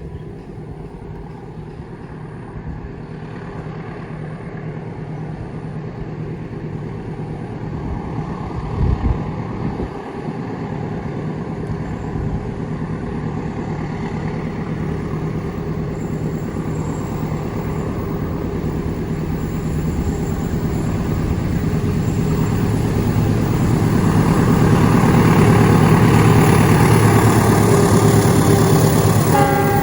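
Diesel locomotive engine hauling a train, its low hum growing steadily louder as it approaches, with a brief thump about nine seconds in.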